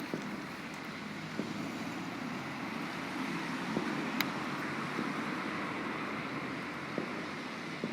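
Distant fireworks popping now and then, about half a dozen faint cracks over a steady outdoor hiss.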